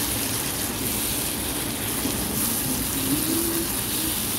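Beef strips and mushrooms sizzling steadily in a nonstick frying pan as they are sautéed.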